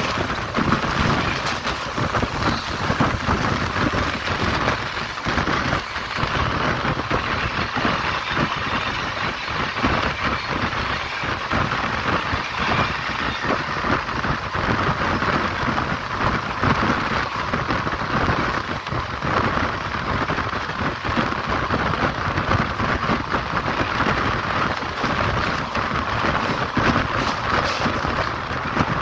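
On-board running noise of an Indian Railways express train at speed: a steady rush of wind and rolling wheels, with a dense clatter from the rails.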